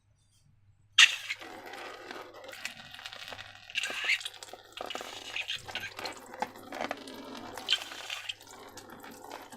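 Wet, sticky slime squelching and dripping, starting suddenly about a second in after a moment of silence and going on in irregular squishes.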